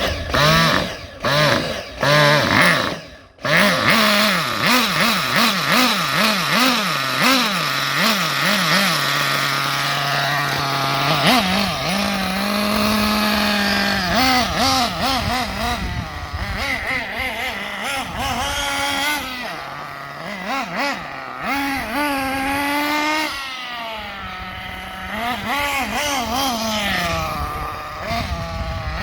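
RB 21 nitro engine of a Kyosho MP10 buggy being blipped on the throttle, its pitch rising and falling again and again, with a few steadier stretches between. There is a brief break in the sound about three seconds in.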